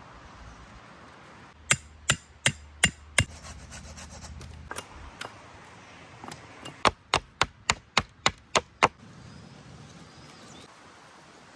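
A tool chopping into wood, sharp blows in two runs: five at an even pace, then after a pause a quicker run of eight.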